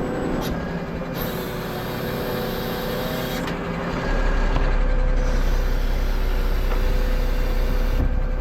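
Heavy truck's diesel engine running during a crane lift, with a deeper, louder rumble coming in about four seconds in, and stretches of high hissing.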